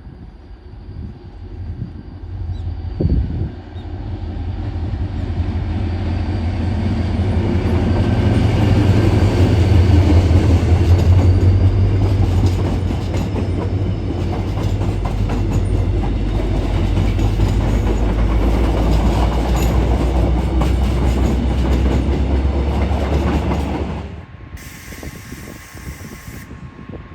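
A train passing close by: a rumble that builds over the first several seconds, with wheels clattering over the rails, then cuts off abruptly about 24 seconds in.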